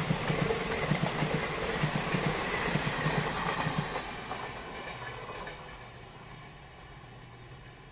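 Indian Railways passenger train coaches passing close by at speed, the wheels clattering over the track in a fast rhythm. The last coach goes by about four seconds in, and the sound then fades as the train draws away.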